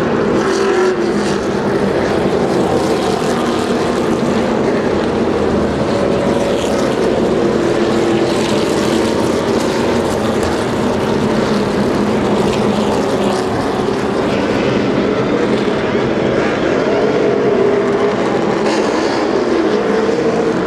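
NASCAR stock car engines running on the speedway, a steady, loud drone with engine notes sliding in pitch near the end as cars go by.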